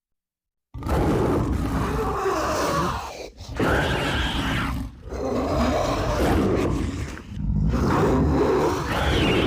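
Monster growl sound effect for the Kothoga creature: a series of four long, rough growls over a deep rumble, starting suddenly after a moment of silence.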